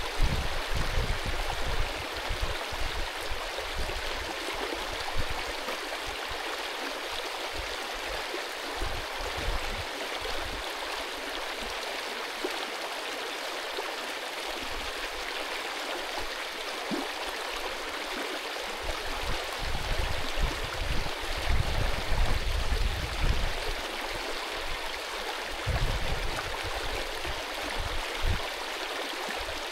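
Mountain stream rushing and gurgling over rocks in a steady, even wash, with low rumbling thumps coming and going, strongest about two-thirds of the way through.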